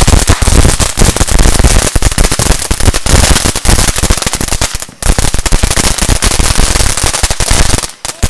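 Firecrackers going off in a rapid, continuous crackle of sharp pops, loud, with a brief break about five seconds in and another near the end.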